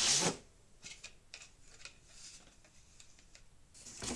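Packaging being handled during unboxing: a brief swishing rustle at the start, then faint scattered rustles and light taps as parts are taken out of the box.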